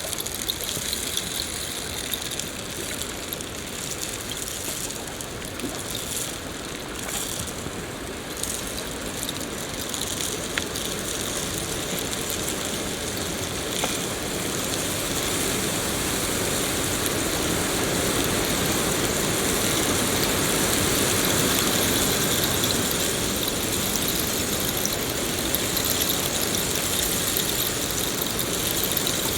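Steady rain falling, an even hiss of drops. It swells gradually louder in the second half before easing slightly.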